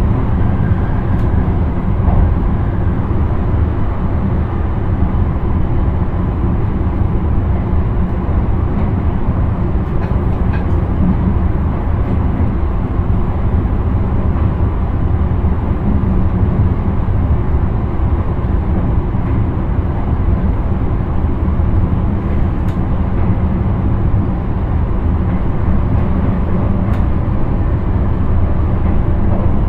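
Intercity train running steadily, heard inside the driver's cab: a constant low rumble of wheels on rail and running noise, with a few faint ticks.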